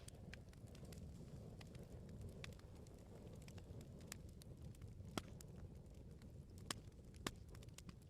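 Wood bonfire crackling: a low steady rumble of burning with scattered sharp pops and snaps, three louder pops in the second half.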